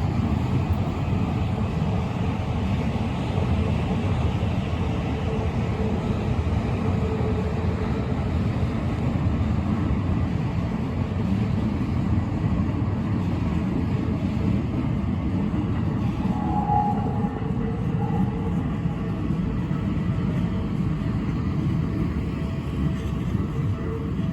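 Train running past, a steady rumbling of wheels on rails that holds throughout.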